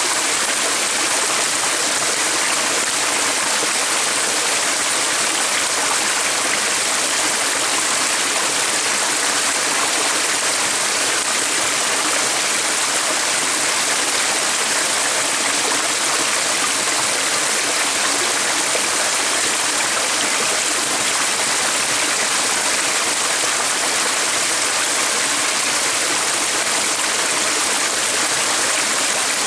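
Running water of a stream, a steady, even rush with no change in level.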